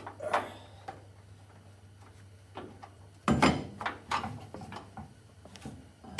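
Irregular clunks and knocks of tools and metal parts being handled, with the heaviest cluster a little past halfway. A low steady hum stops about three seconds in.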